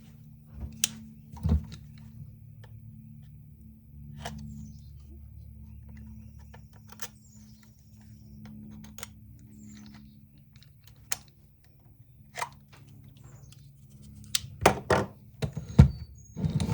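Hands working on a DeWalt DCD780 cordless drill's plastic housing: scattered clicks and light knocks, with a few faint scraping strokes of a knife working at the sticker over the housing seam. Near the end comes a quick run of louder knocks and rattles as the housing is worked loose.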